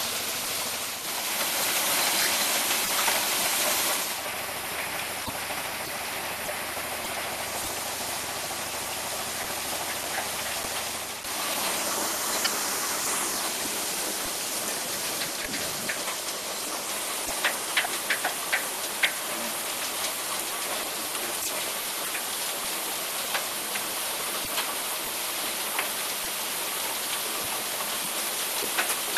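Sand washing machine running: a steady rush of water and wet sand, louder for the first few seconds, with a handful of sharp clicks past the middle.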